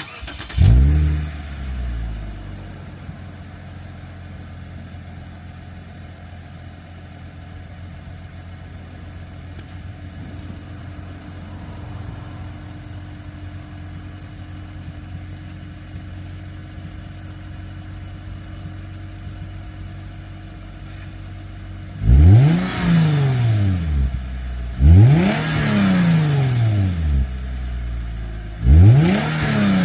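2009 Lexus IS250's 2.5-litre V6 starting through a newly fitted Tanabe Revel Medallion catback exhaust. It catches with a brief flare in revs, settles into a steady idle, and near the end is blipped three times, each rev rising and falling quickly.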